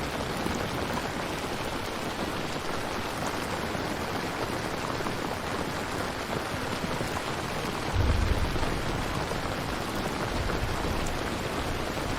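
Steady rain falling, an even hiss of drops on a surface. A brief low rumble rises out of it about eight seconds in, with a weaker one a couple of seconds later.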